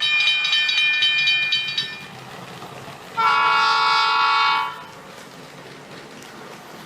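Two electronic train-horn sound effects from the Lego Powered Up app: a first, slightly flickering horn lasting about two seconds, then after a short gap a steady horn chord of about a second and a half.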